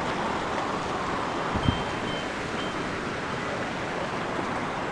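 Steady rain falling, an even hiss of water, with one brief low thump about a second and a half in.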